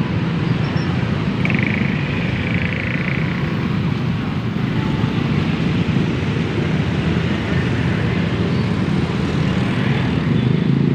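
KRL JR 203 electric commuter train running at a level crossing: a steady rumble, with a brief high squeal about a second and a half in.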